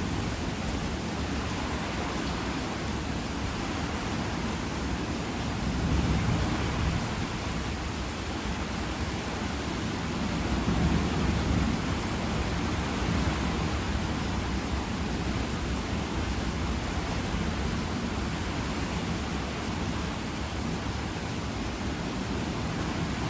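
Heavy rain falling steadily during a summer thunderstorm, with two louder low swells, about six seconds in and again around eleven seconds.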